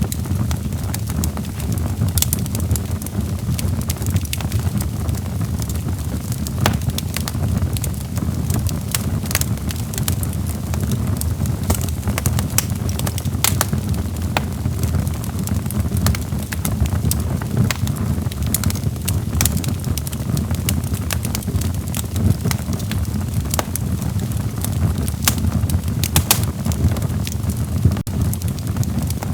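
Burning logs in a fireplace crackling: irregular sharp pops and snaps over a steady low rumble.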